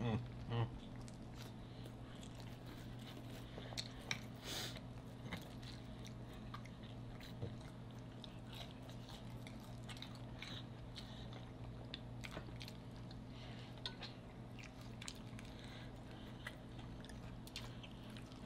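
Close-up sounds of biting and chewing sauced fried chicken wings: scattered short clicks and mouth smacks, with one sharper crunch about four and a half seconds in. A steady low hum runs underneath.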